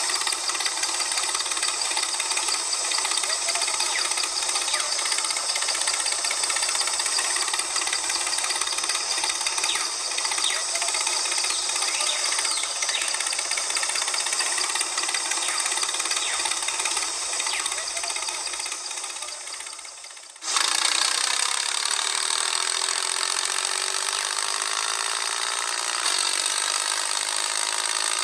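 Small motor of a miniature model machine running steadily. It fades and stops about two-thirds of the way through, then starts again.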